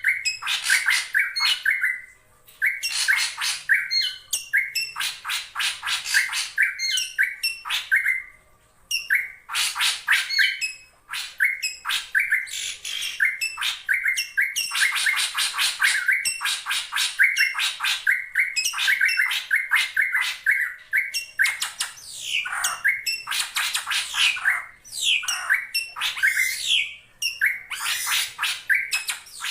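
A drongo calling in a rapid, chattering run of harsh squawking notes, with brief pauses about two and a half, eight and eleven seconds in.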